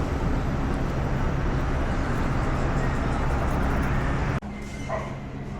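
Steady vehicle running noise with a low hum, cutting off suddenly about four seconds in to a quieter, steady hum.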